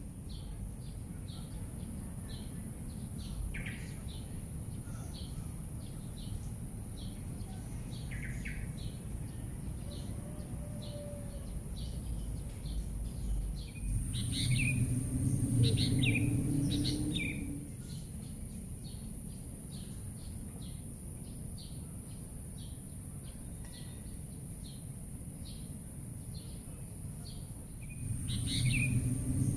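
Birds chirping in short repeated calls over a steady high-pitched hiss, with a low rumble that swells for a few seconds about halfway through and again near the end.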